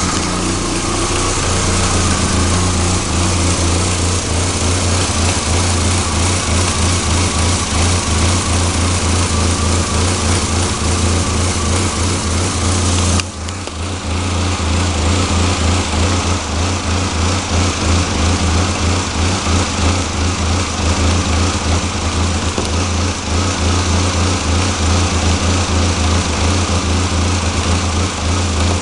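Nissan 240SX's KA24DE 2.4-litre four-cylinder engine idling roughly, with an uneven, pulsing beat. The sound dips briefly about 13 seconds in, then carries on as before.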